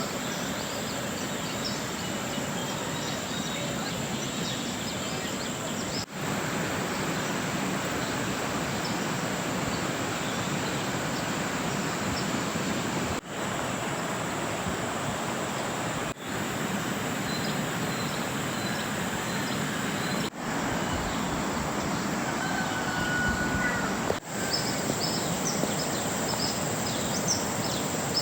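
A steady rush of water from the river and rain, with a constant high insect drone over it. The sound dips briefly at several cuts, and birds chirp faintly near the end.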